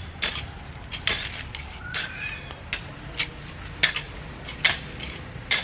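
A small metal digging tool scraping and chopping into soil around chilli plants, about one stroke a second, as the earth at their bases is loosened.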